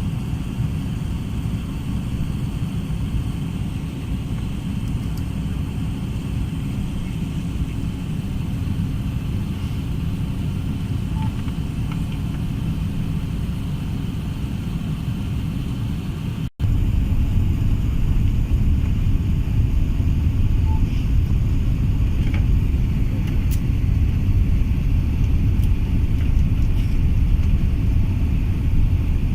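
Steady low rumble of an Airbus A380-800 heard inside the passenger cabin. About halfway through there is a brief dropout, after which the rumble is louder and deeper.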